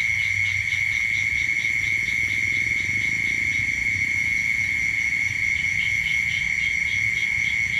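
Night insects calling: a steady high-pitched trill with a faster pulsing chirp above it, about four or five pulses a second, over a low steady rumble.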